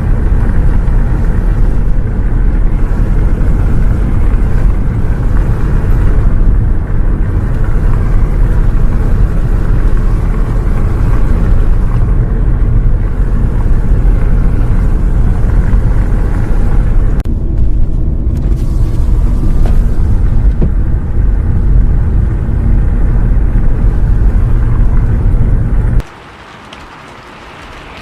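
Bus engine and road drone heard from inside the bus, a loud steady low rumble with rain hiss over it, cutting off suddenly near the end to leave only quieter rain.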